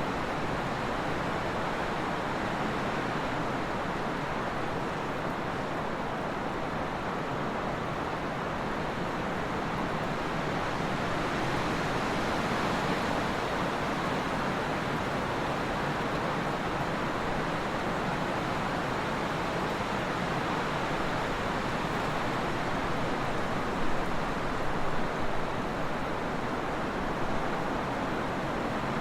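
Trade wind blowing, a steady rushing with a mild swell about halfway through and a few brief, louder gusts near the end.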